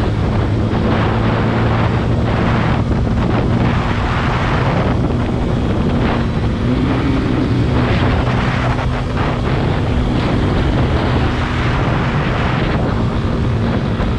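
Yamaha FZ-S 150 cc single-cylinder motorcycle engine running at a steady pace on the road, with wind buffeting the helmet-mounted microphone.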